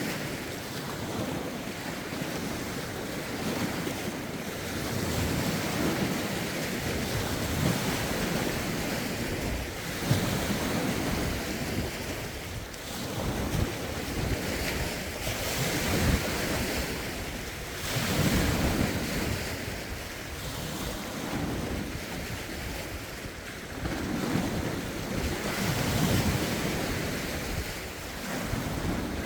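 Lake waves washing onto the shore in repeated surges every few seconds, with gusty wind buffeting the phone's microphone.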